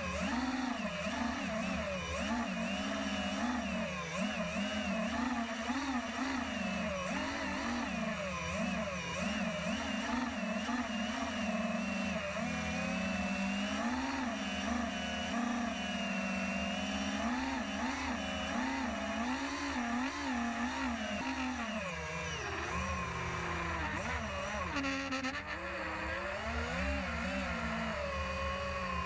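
Engine of a radio-controlled model aircraft in flight, its pitch rising and falling continuously with throttle and passes. The tone dips lower and grows more uneven about three-quarters of the way through.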